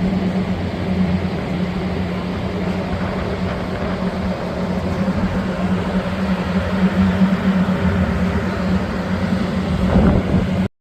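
Steady low engine drone with a constant hum over a rushing haze. It cuts off suddenly near the end.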